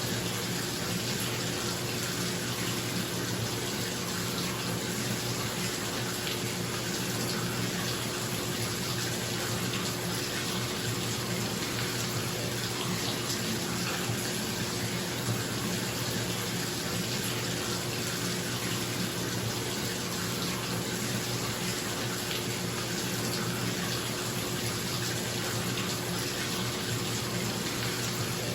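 Bathtub tap running steadily into the tub, a constant rush of water, with the bathroom exhaust fan humming steadily underneath.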